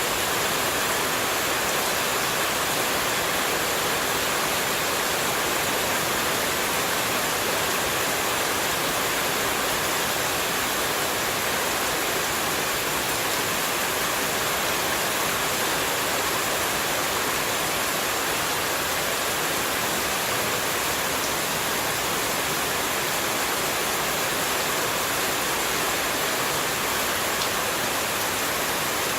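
Flowing water rushing steadily, an even hiss with no changes, used as white noise for sleep.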